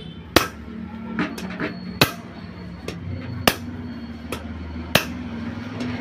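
Four sharp knocks, about one every one and a half seconds, as a motorcycle rear shock absorber's coil spring is worked to stretch it, with a low steady hum underneath.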